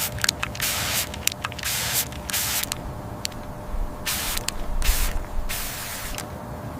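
Repeated bursts of spraying hiss, some short and quick, others about half a second long, with brief gaps between them, over a faint steady hum.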